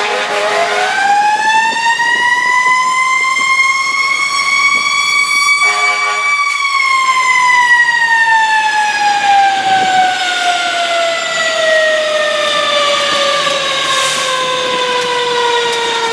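Fire engine siren winding up from a low pitch to its peak over about six seconds, then slowly winding down, with a brief lower horn-like blast at the top of the wind-up.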